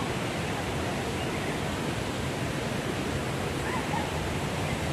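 Steady rushing noise with no break, filling the low end heavily, with a faint distant voice briefly near the end.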